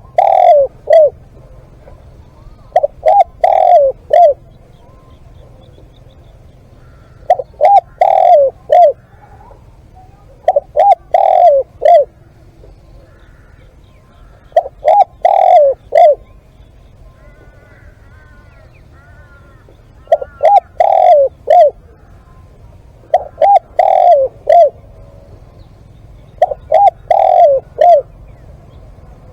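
Spotted dove cooing: loud phrases of four or five quick coos, repeated every three to five seconds, eight phrases in all.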